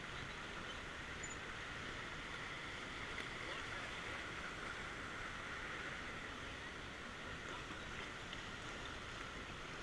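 River water rushing steadily, an even, unbroken rush of flowing water.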